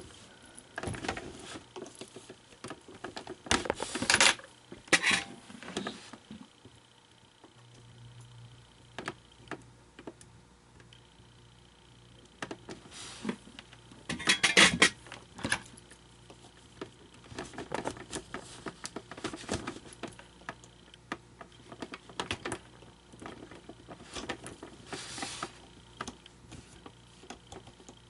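Irregular small clicks, taps and rattles of hands and tools working on a plastic animatronic figure, with louder clusters of clatter about four seconds in and again around the middle.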